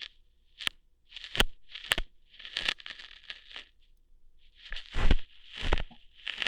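Close-up ASMR ear-hair plucking sounds: crackly, rustling scrapes broken by sharp snapping pops, several in irregular succession, the loudest pops coming a little past the middle.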